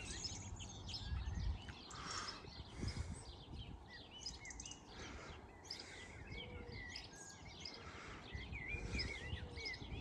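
Small songbirds chirping and singing, many short quick calls one after another, over a faint low rumble.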